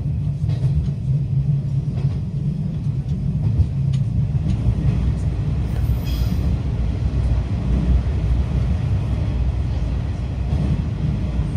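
Electric train running on the rails into and through a tunnel, heard from inside the carriage: a steady low rumble of wheels on track, with a brief high-pitched tone about six seconds in.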